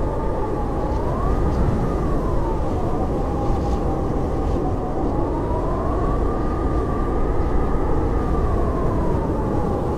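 Howling blizzard wind: a steady rushing noise with a whistling howl on top that slowly rises and falls in pitch.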